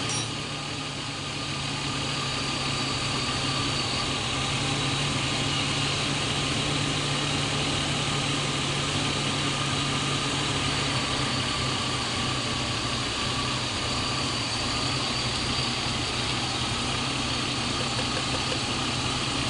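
BMW E36's M52 2.0-litre inline-six engine idling steadily, dipping slightly in loudness about a second in.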